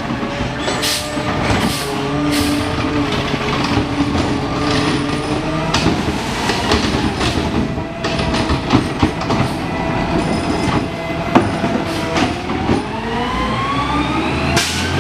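Garbage truck at work: its engine drops in pitch, runs steady, then revs up again near the end, with clanks and bangs scattered throughout.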